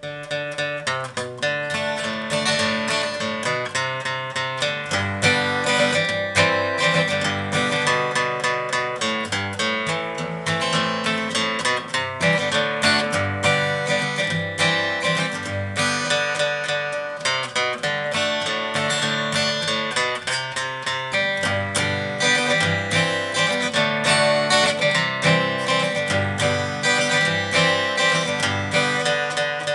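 Acoustic guitar played without singing, a busy run of quickly picked notes mixed with strums.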